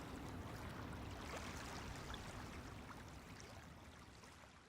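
Faint steady ambient noise, fading out toward the end.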